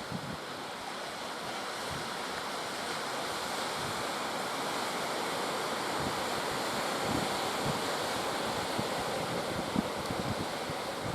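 Sea surf washing steadily, swelling slightly over the first few seconds, with wind buffeting the microphone in short low gusts.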